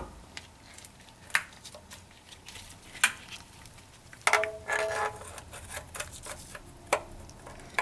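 Scattered metallic clinks and knocks of hand tools against the car's underside while the stuck oil pan is worked at, with a short ringing metal scrape about four seconds in.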